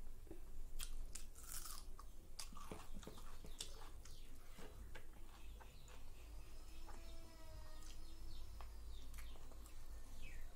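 Close-up chewing and biting of chicken curry and rice, with frequent short crunching clicks.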